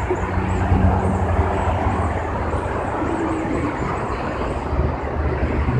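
Boeing 737 jet engines at takeoff power, a steady rumbling roar.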